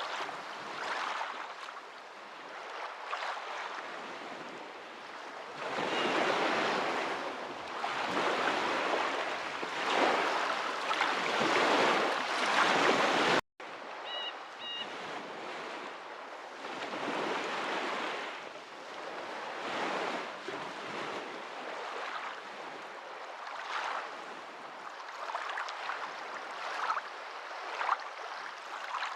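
Water washing in waves that swell and ebb, loudest in a long surge about halfway through. The sound cuts out completely for an instant in the middle, and two faint high chirps follow just after.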